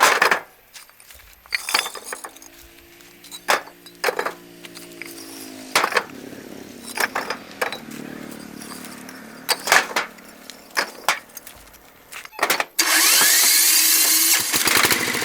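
Scattered sharp knocks and clatter of hand work, then near the end a loud motor-driven machine starts up and runs steadily.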